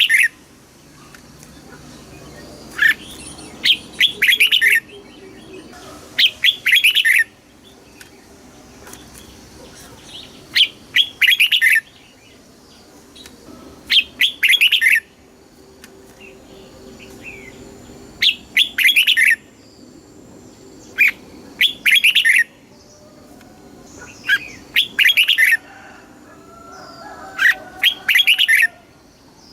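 Red-whiskered bulbul singing: short, bright phrases of several quick notes, repeated about every three to four seconds.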